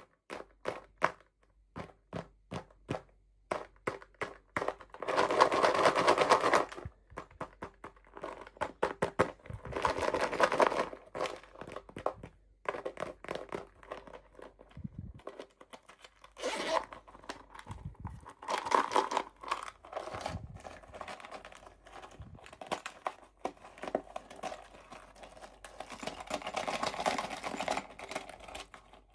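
Packaging being crinkled and torn open by hand, with many small clicks and taps in between and a few longer stretches of rustling crinkle.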